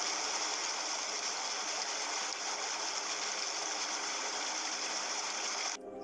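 Steady rush of flowing water, like a stream, with no birdsong over it; it cuts off suddenly near the end.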